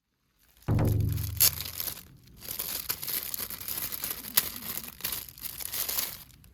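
Crinkling and rustling, as of a bag or wrapping being handled. A loud deep ringing tone sounds about a second in, and the crinkling runs on after it.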